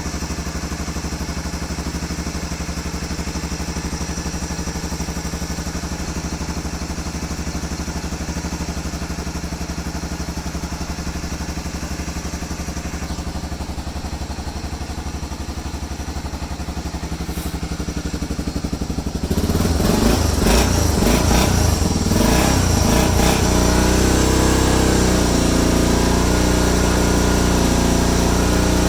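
Small ATV engine running steadily at idle. About two-thirds of the way through the sound suddenly becomes louder and fuller, and its pitch wavers up and down.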